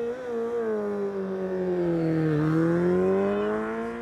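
Sport-bike engine held at high revs. Its pitch sags for about two seconds, then climbs again, and it is loudest just as the pitch turns upward.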